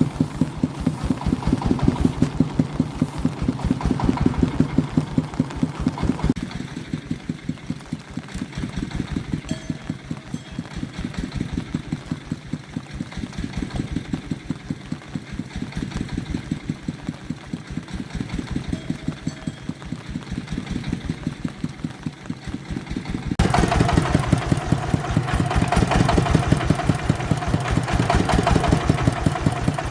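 Engine of an agricultural vehicle running with a fast, even pulse. It turns abruptly quieter about six seconds in and louder again a few seconds before the end.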